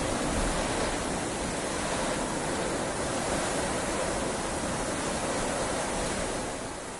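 Heavy rain falling steadily, an even dense hiss, a little softer near the end.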